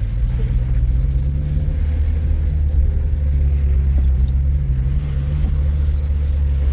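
Steady low rumble of a car on the move: engine hum and road noise.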